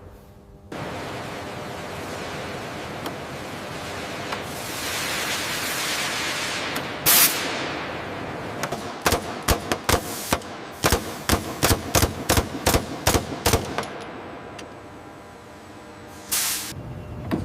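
Mechanical test-cycle sounds: a hiss swells, a sharp bang about seven seconds in, then a rapid run of sharp clacks, about three a second, and a final burst near the end.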